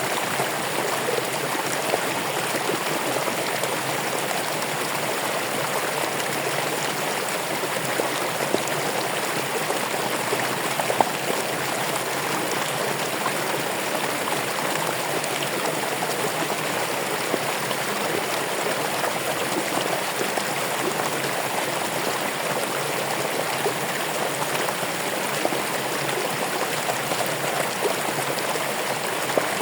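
Running water flowing steadily, with an occasional brief louder splash.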